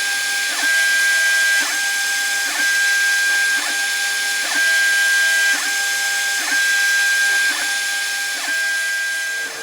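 A machine tool's motor runs with a steady whine that dips briefly in pitch and recovers about once a second. The sound alternates between two slightly different levels from one stroke to the next, like an axis moving back and forth and reversing.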